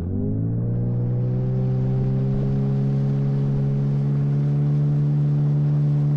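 Motorboat's outboard motor speeding up during the first second, then running at a steady, slowly climbing pitch under way.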